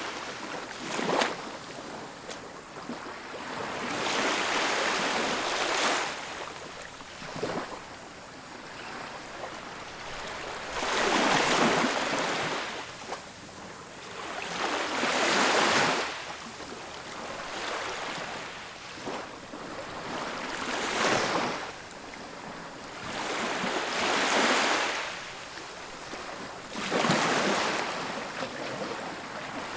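Ocean waves breaking on a beach, each surge of surf swelling and washing out again about every four seconds, with a few short, sharper crashes in between.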